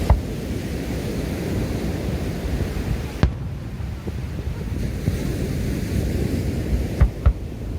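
Fireworks shells bursting in sharp bangs: one at the start, one about three seconds in, and two in quick succession near the end. Under them runs a steady low rumble of wind buffeting a smartphone microphone.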